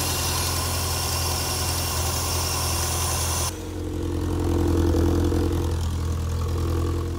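Toyota MR2's 3S-GTE turbocharged four-cylinder engine idling steadily, with a hiss over it that stops abruptly about halfway through.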